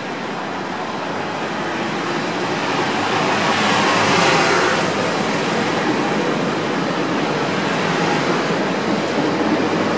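Metro-North M3 electric multiple-unit train running past along the platform: a rush of wheels on rail with a low steady hum, building up as the cab draws level about four seconds in, then holding steady as the cars roll by.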